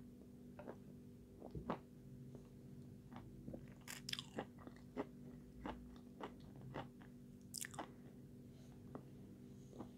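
A person chewing food close to the microphone with the mouth closed: soft, irregular mouth clicks, with two brief crunchy bursts, one about four seconds in and one about three-quarters through. A faint steady hum lies underneath.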